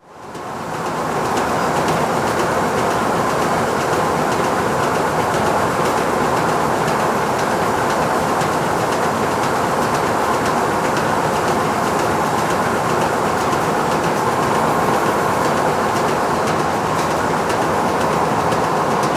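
Factory machinery running steadily: a dense, even mechanical noise with a faint fine rattle. It fades in over the first second or so.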